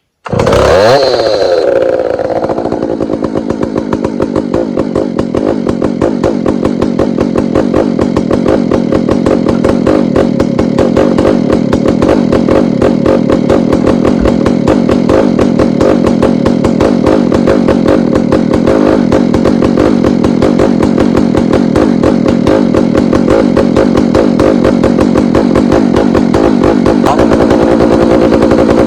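Two-stroke chainsaw engine firing up cold, revving briefly, then settling into a steady idle with rapid, even firing pulses as it warms up.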